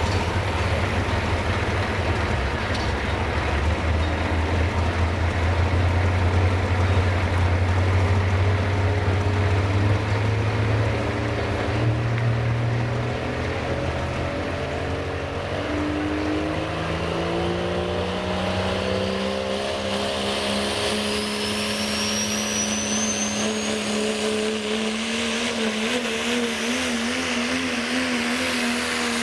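A turbocharged pro stock diesel 4x4 pickup making a pull: a heavy low engine note for the first half, then the engine's pitch climbs steadily as it revs higher, with a turbocharger whistle rising above it, before both level off and hold near the end.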